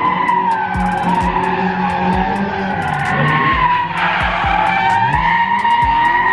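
Car tyres squealing continuously, wavering in pitch, during a burnout or donuts. Music with deep booming bass hits plays underneath.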